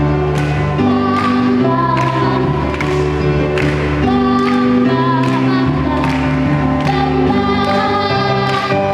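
Children's choir singing a Christmas carol with instrumental accompaniment, held notes over a steady beat.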